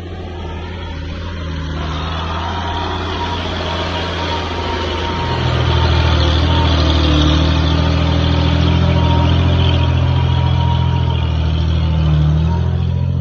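Bulldozer's diesel engine running steadily, getting louder about five seconds in and holding at that higher level as it works.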